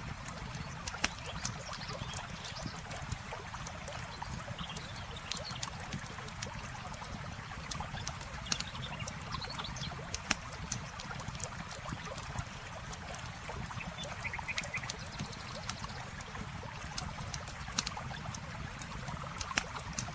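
Wood campfire crackling and popping in scattered sharp snaps over the steady rush of flowing river water, with a few short animal calls.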